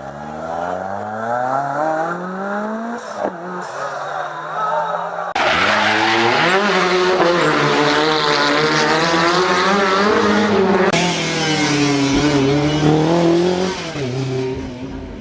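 Historic rally car engines at full throttle. The revs climb steadily for about three seconds and break off, then louder passages follow with the revs rising and falling. The sound changes abruptly twice as the footage cuts between cars.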